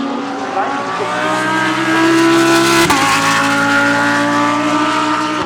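Several GT3 race cars passing at speed, their engine notes overlapping. The pitch climbs for about three seconds, then drops sharply as a gear changes, and the engines run on steadily.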